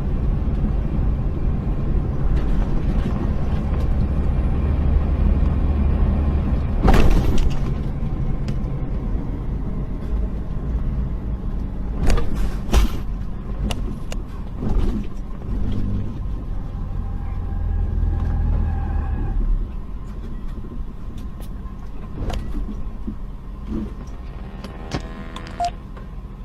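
Car on the road: a steady low engine and road rumble, broken by sharp knocks about 7 seconds in and twice around 12 to 13 seconds in.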